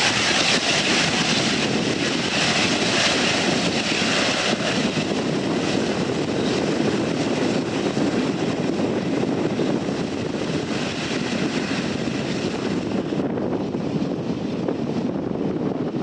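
Jet airliner engines heard as a steady rushing noise. The high hiss weakens through the second half and drops a step about thirteen seconds in, as the aircraft moves away.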